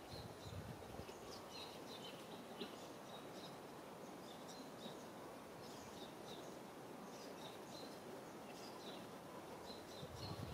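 Faint steady background hiss with small birds giving repeated short, high chirps.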